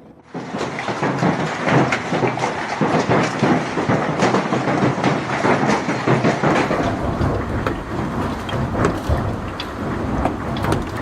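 Heavy hail pelting down, a loud, dense clatter of countless impacts on hard surfaces.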